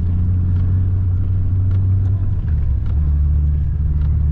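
Nissan 300ZX's V6 engine running steadily with tyre and road rumble, heard from inside the cabin while driving on snow. The engine note shifts slightly about two and a half seconds in.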